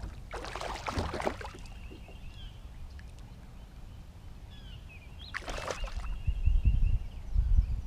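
Water splashing and sloshing at a kayak in two short bursts, about a second in and again near six seconds, with a bird chirping faintly in between. Heavy low thumping and rumbling near the end, the kayak or camera being knocked.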